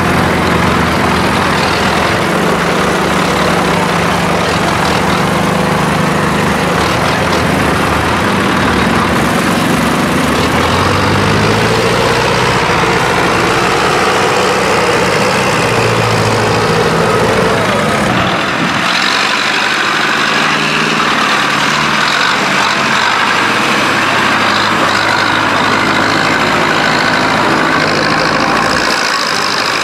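Tractor engine running under load, its pitch rising and falling as it revs, with an abrupt change in the engine sound about two-thirds of the way through.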